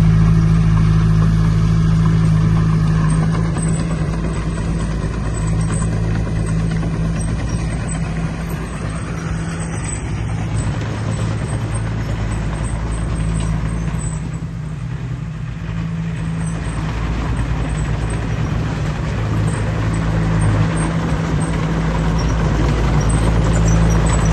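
Heavy earthmoving diesel engine running under steady load, a deep, continuous engine hum that eases slightly past the middle.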